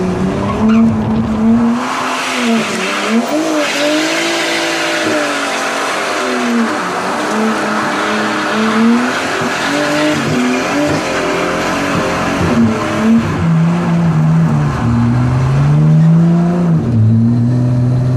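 Straight-piped Nissan RB25DET turbocharged 2.5-litre straight-six revving up and down hard, heard from inside the cabin. Tyre squeal from about two seconds in lasts until about twelve seconds as the car skids. Near the end the revs climb, drop and climb again.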